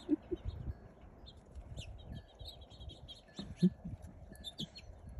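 Many small songbirds chirping rapidly in short, high notes, over a low rumble of wind on the microphone. A brief low bump about three and a half seconds in is the loudest sound.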